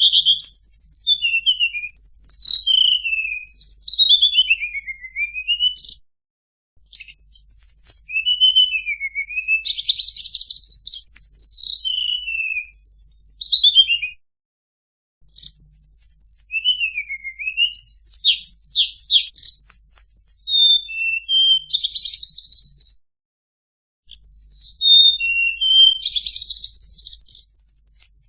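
Tledekan (blue flycatcher) singing: rapid phrases of clear whistled notes sweeping up and down, mixed with fast buzzy trills, in bursts of several seconds broken by three short pauses.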